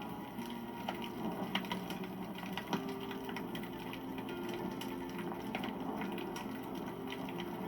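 Wood fire crackling, with irregular sharp pops, the loudest about a second and a half and nearly three seconds in. Soft held musical notes sound underneath.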